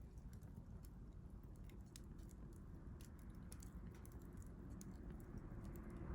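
Wood fire burning in a stainless steel fire grill: faint, irregular crackles and small pops over a low rumble.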